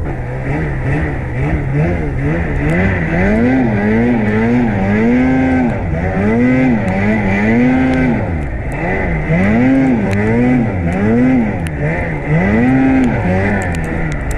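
Snowmobile engine revving up and down over and over, the pitch rising and falling about once a second as the throttle is worked through deep powder.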